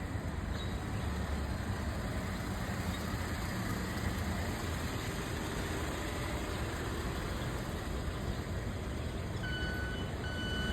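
Steady rumble of road traffic, with a repeating electronic beep starting near the end, sounding twice.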